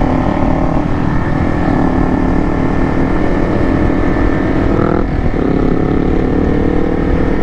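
Motorcycle engine running under way, with wind rumbling on the microphone. The engine note climbs slowly, breaks off briefly about five seconds in, then picks up again, as in a gear change.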